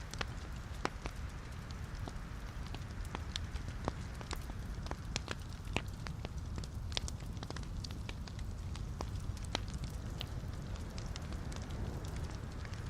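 Logs burning in a fireplace: a steady low rumble of flames with frequent, irregular sharp crackles and pops.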